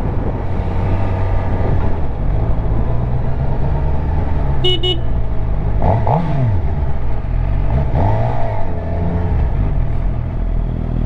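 Suzuki GSX-R750's inline-four engine running under way, with steady wind and road noise and the revs rising and falling a couple of times. A short high beep sounds about five seconds in.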